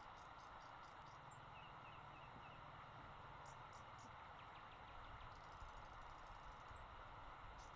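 Faint outdoor ambience with small, high bird-like chirps and ticks scattered over a steady low hiss.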